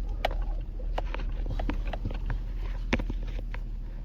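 Vehicle driving slowly over a rough, bumpy dirt road, heard from inside the cabin: a steady low rumble with scattered clicks and knocks of the vehicle rattling over the bumps.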